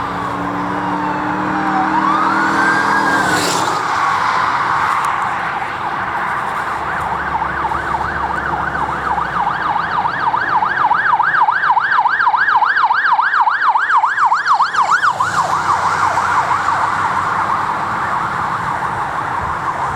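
Police patrol car electronic sirens going by: a wail sweeps down and up early, then a fast yelp warbles about four times a second through the middle and eases off near the end.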